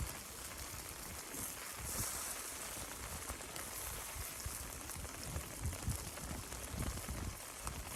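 Mountain stream running, a steady rushing hiss of water.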